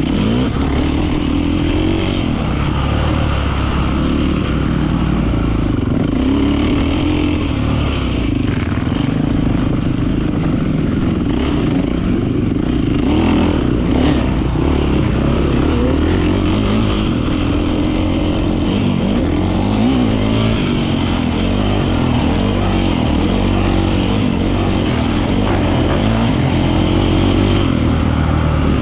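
Beta 450 RX four-stroke single-cylinder motocross engine running while ridden, its revs rising and falling over and over with the throttle.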